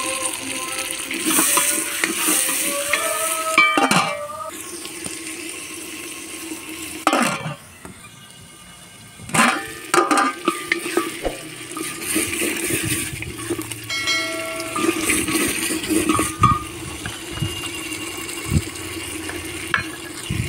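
Chopped tomatoes frying in oil in an aluminium pot as they are stirred with a wooden spatula, with a few sharp metal knocks around the middle as the pot's lid is handled.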